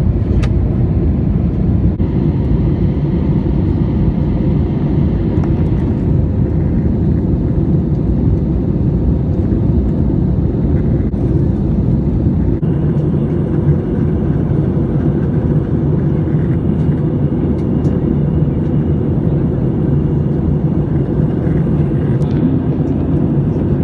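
Airbus A320 cabin noise heard from inside the cabin: a steady, loud rumble of engines and airflow. About halfway through, a faint high whine joins in.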